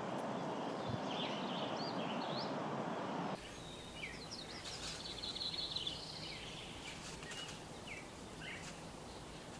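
Wild birds calling: short chirps and whistled notes, with a fast trill in the middle. For the first few seconds a steady rustling noise lies under them, then stops abruptly, leaving the bird calls clearer.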